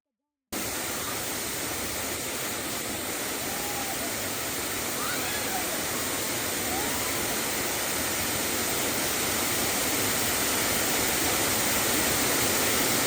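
Waterfall rushing: a dense, steady roar of falling water that cuts in suddenly and grows slightly louder.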